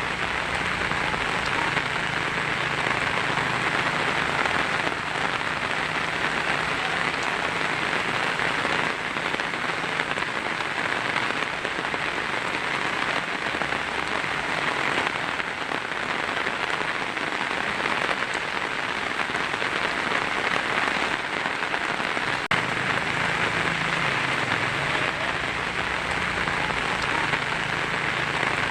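Heavy rain pattering on a tin roof in a steady, even wash.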